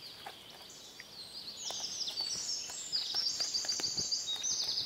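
Small songbirds singing: many high chirps and quick trills that thicken into a busy chorus about one and a half seconds in.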